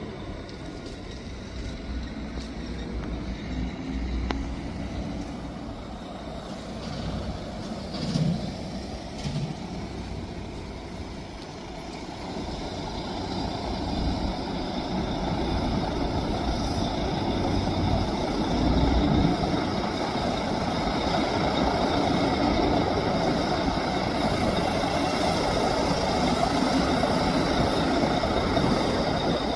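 Truck engine running with a steady rumble that gets louder about halfway through and stays up.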